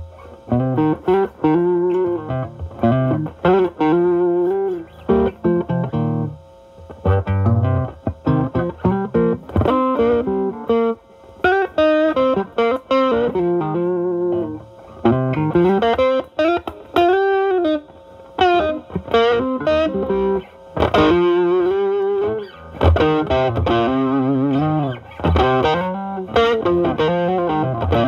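Stratocaster single-coil electric guitar through a Ceriatone Centura Klon-clone overdrive into a Marshall Valvestate amp's drive channel, the guitar's volume rolled back so the pedal's high gain cleans up to a lighter overdrive. Single-note lead phrases with string bends, broken by short pauses.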